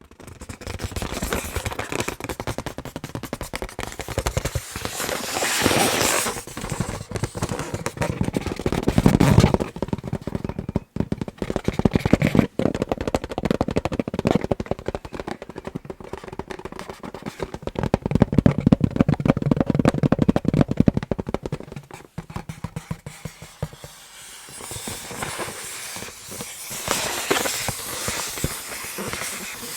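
Tapping and scratching on an inflated balloon: a dense, rapid run of taps and scratches that grows and eases, with louder stretches about a third of the way in and again past the middle.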